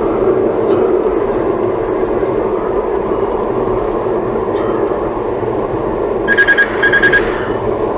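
Steady road and wind noise inside the cabin of a Toyota Tank driving at highway speed in a strong crosswind. Two short electronic beeps sound about six and seven seconds in.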